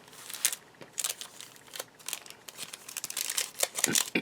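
Paper and card rustling and crinkling in short, irregular bursts as the pages and paper inserts of a handmade journal are handled. The rustling gets busier toward the end.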